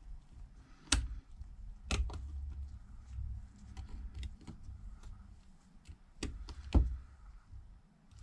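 Small repair tools and phone parts clicking and tapping as they are handled, with four sharper clicks, two of them close together near the end, among fainter ticks.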